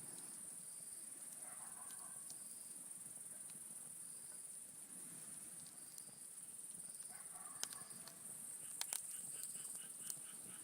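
Campfire burning, with a few sharp pops from the wood, the loudest two coming close together near the end. Behind it, a steady high insect trill, and a pulsing chirp of about four a second starts in the last couple of seconds.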